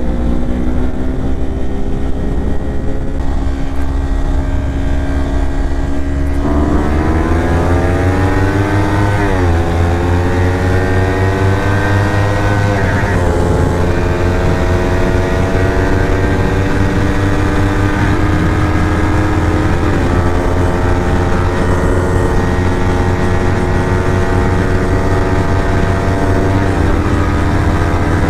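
Kawasaki Ninja 400 parallel-twin motorcycle engine running under way: steady at first, then about six seconds in the pitch climbs and drops twice as it accelerates through two upshifts, before settling into a steady cruise.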